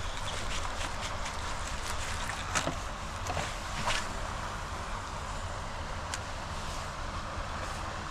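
Steady rushing of storm-drain floodwater and rain, with a low rumble of wind on the microphone. A few sharp ticks come about two and a half, four and six seconds in.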